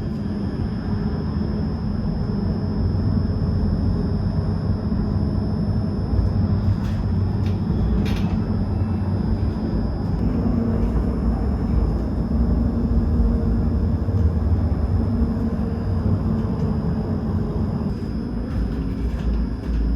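Tram in motion: a steady low rumble of the running tram, with a couple of brief clicks about seven and eight seconds in.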